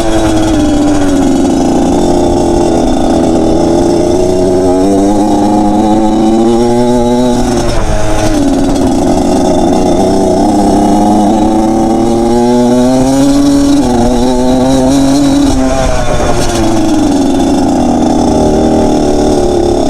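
Motorcycle engine being ridden hard: its pitch climbs under throttle and then drops off sharply when the throttle is backed off, three times over.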